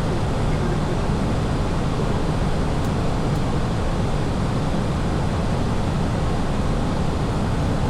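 Steady, unbroken roar of an Airbus airliner's engines and rushing air.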